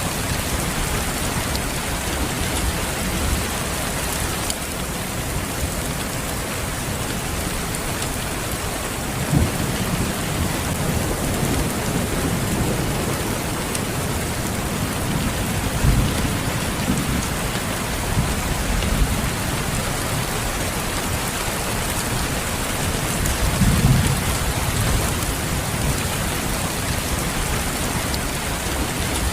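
Steady rain falling, with a few short low rumbles about ten, sixteen and twenty-four seconds in.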